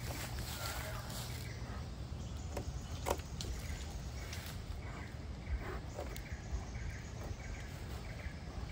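Outdoor ambience: a steady low rumble with faint bird-like chirps, and a few sharp clicks, the loudest about three seconds in.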